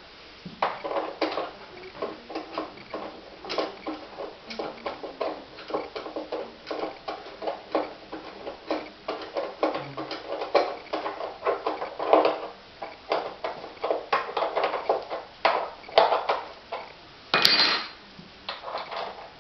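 Irregular clattering and clinking of hard objects, several knocks a second with louder clusters, and one sharper ringing clink near the end.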